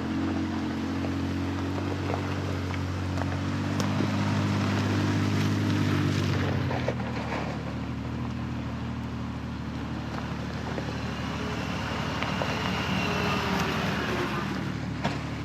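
Off-road 4x4's engine running at low speed while it drives through a shallow creek, with water splashing and sloshing around the tyres. The engine note shifts about halfway through.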